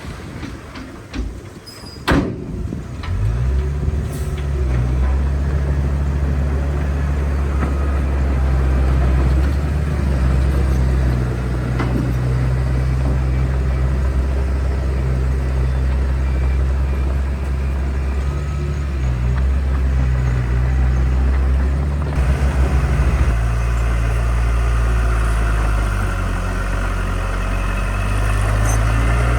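Heavy construction machine's diesel engine running steadily under load after a sharp knock about two seconds in, its low note shifting about three quarters of the way through.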